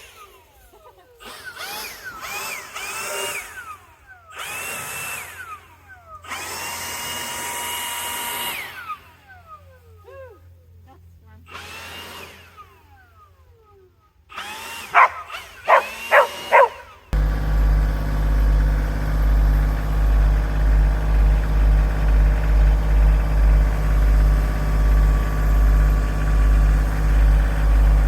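Cordless drill driving fasteners into timber in a series of short bursts, its motor speeding up and slowing down with the trigger, one run held for about two seconds. About two-thirds of the way in, this gives way abruptly to an engine idling with a steady low throb.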